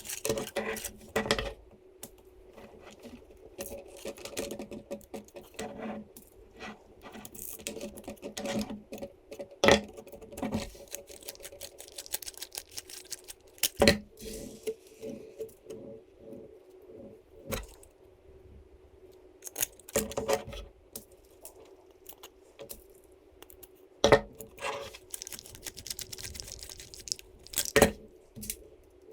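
Small metal hardware and 3D-printed plastic parts being handled during assembly: irregular clicks, clinks and light knocks, with a few sharper taps, over a faint steady hum.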